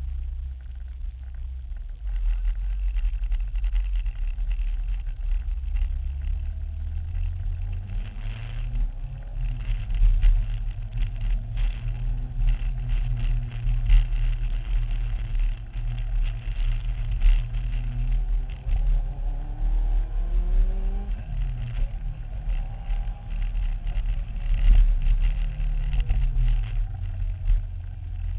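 Promotive R1 Mini engine running, picking up about two seconds in, and revved up and back down twice. The engine has a problem that the owner cannot identify.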